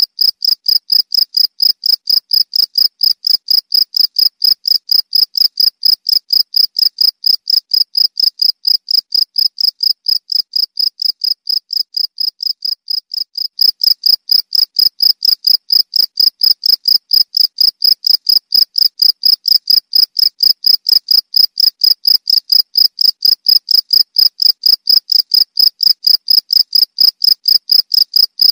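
Cricket chirping: a rapid, even run of high-pitched chirps, a little softer for a few seconds in the middle and louder again from about halfway through.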